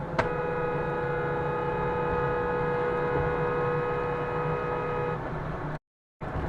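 Car horn held in one long blast of about five seconds, over a steady low hum of engine and road noise; the sound cuts out abruptly near the end.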